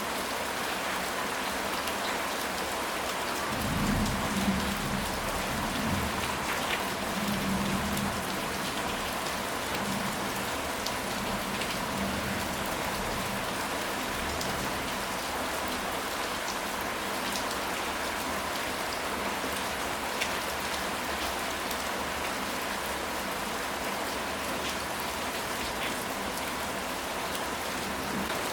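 Steady rain falling on a surface, an even hiss with scattered drops. A low rumble swells about four seconds in and fades by about eight seconds.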